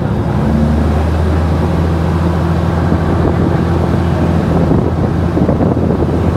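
Diesel passenger train under way: a steady low engine drone that steps up about half a second in, with wind and rolling noise coming in through an open carriage window.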